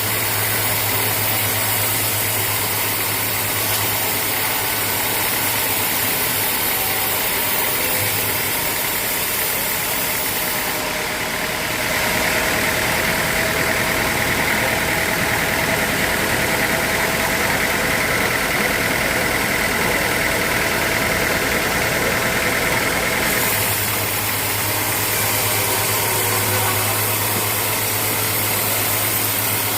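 Sawmill machinery running steadily. For about ten seconds in the middle the low hum drops away and a steady higher-pitched tone comes in, then the low hum returns.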